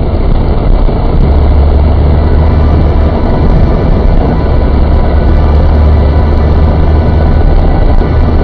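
Steady engine and road noise heard inside a MINI's cabin while it drives through snow, an unbroken drone strongest in its low hum.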